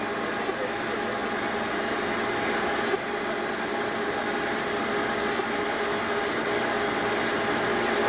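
Steady mechanical drone with hiss and a constant hum, unchanging throughout.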